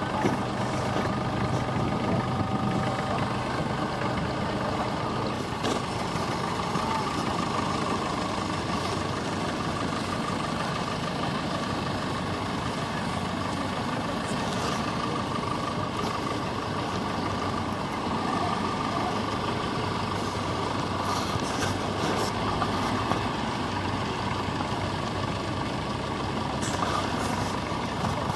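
Vintage tractor engine running steadily, its note and loudness holding even throughout.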